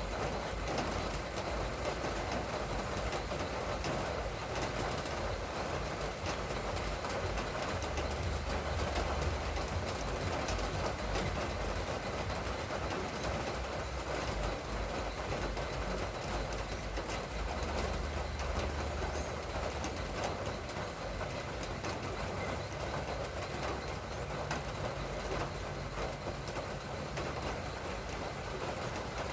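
Steady hiss of light drizzling rain after a heavy downpour, with a low rumble twice, about eight and eighteen seconds in.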